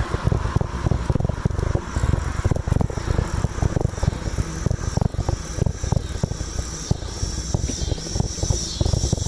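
Wind buffeting the microphone of a moving bicycle rider, a low, gusty rumble throughout. A high, steady whine joins about four seconds in.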